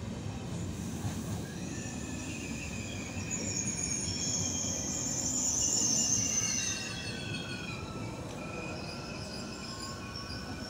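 ICE high-speed train moving through the station, squealing at a high pitch with several tones at once over a low rumble. The squeal is loudest about halfway through and then falls slightly in pitch.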